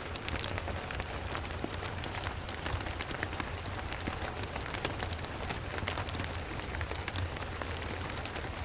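Steady rain, with many sharp, irregular crackles from a wood fire in a fireplace and a steady low rumble underneath.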